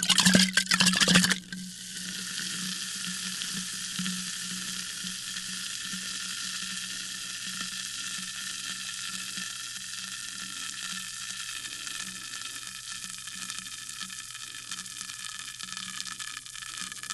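Sparkling water fizzing. A loud rush lasts about the first second and a half, then settles into a steady crackling fizz of bursting bubbles.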